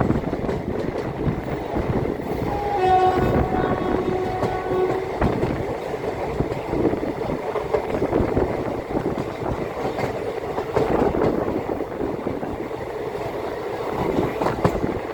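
Indian Railways ICF passenger coaches running over the rails with a steady rumble and clickety-clack. About three seconds in, the locomotive's horn sounds once for about two seconds, a short higher note followed by a steady lower one.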